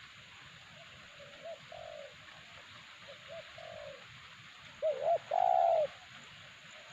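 Spotted dove cooing: a few soft, short coos, then a louder two-note call about five seconds in that runs into one long, drawn-out coo.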